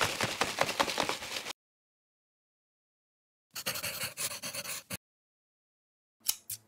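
Scratchy pencil-on-paper scribbling sound effects: a burst lasting about a second and a half at the start, a second burst about three and a half seconds in, and a short double scratch near the end.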